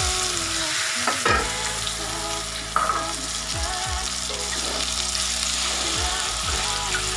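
Raw chicken pieces sizzling in a wok in a little hot oil with sautéed spice paste, stirred and turned with a spatula, with a few sharp scrapes or knocks of the spatula against the wok.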